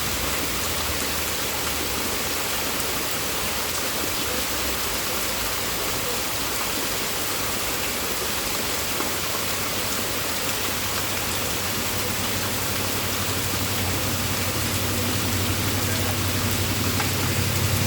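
Heavy rain falling steadily. A low rumble builds and grows louder over the last few seconds.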